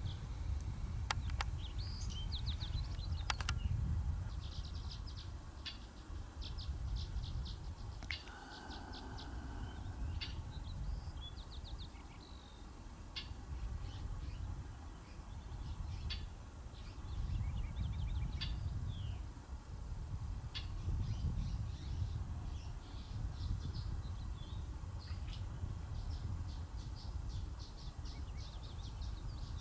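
Wind buffeting the microphone in gusts during a speedwing descent, with many short high chirps over it that come thicker near the end.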